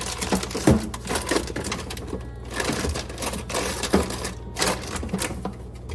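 Food jars, bottles and packages knocking and rustling as they are moved around and set down in a refrigerator, a run of irregular clicks and knocks.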